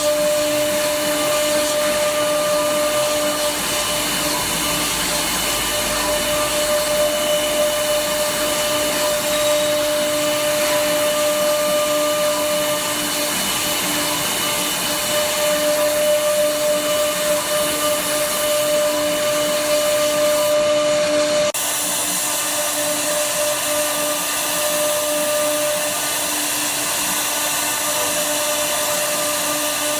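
CNC router spindle running and cutting wood: a steady high whine over the noise of the bit in the wood. The sound changes abruptly about two-thirds of the way through, with the whine weakening after it.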